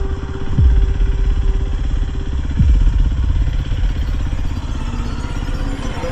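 Dirt bike engine running under way, its firing pulses steady and dense, with two deep thumps about two seconds apart.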